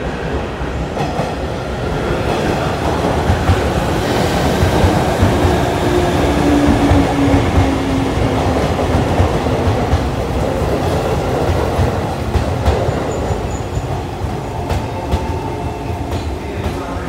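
JNR 185 series electric train running into the platform, its wheels clacking over the rail joints as the cars pass close by. A low tone falls in pitch about six seconds in.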